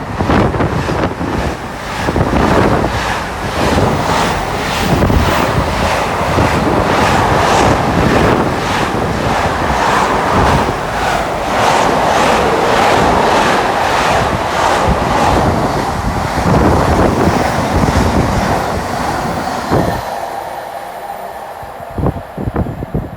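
A train passing at speed close by: loud rushing noise with an even, quick rhythm of wheel beats, dying away about twenty seconds in.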